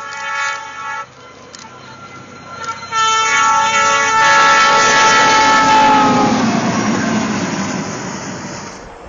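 Train horn sounding, breaking off about a second in, then blowing again as the train rushes past, its pitch dropping as it goes by. The loud rush of the passing train builds and then fades away near the end.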